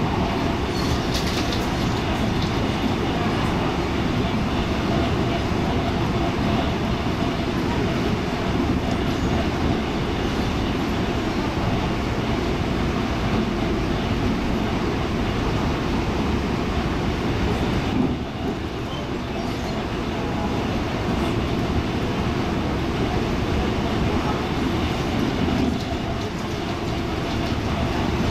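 Steady running noise of an MTR East Rail MLR electric multiple unit heard from inside a carriage: a continuous rumble of wheels on rail with a faint steady whine, briefly dropping in level about 18 seconds in.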